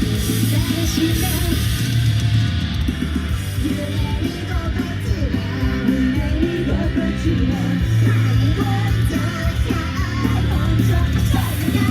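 Loud live rock-style idol song over a venue sound system: distorted guitars, heavy drums and bass, with a singing voice over the top.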